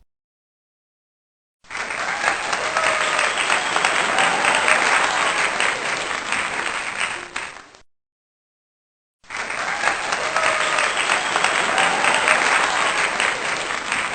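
Crowd applause with some cheering, heard as two stretches of about six seconds each with dead silence before and between them, like the same recorded clip played twice.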